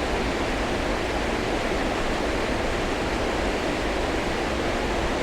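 Waterfall cascading around boulders into a pool: a steady, unbroken rush of falling water.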